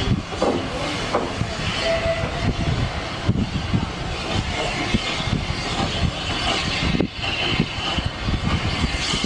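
A train running along the line, with a steady rumble and irregular knocks of its wheels on the rails.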